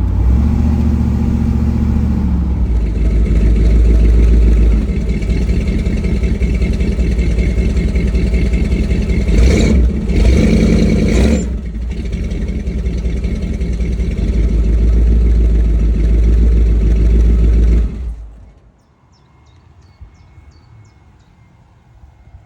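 Ford 400 V8 with 3-inch headers and Flowmaster exhaust idling, revved twice in quick succession about halfway through, then stopping near the end, after which only faint birdsong remains.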